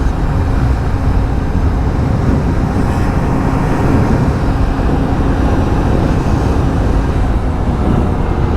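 Motor scooter being ridden at a steady speed: its engine runs evenly under a constant rumble of wind on the microphone.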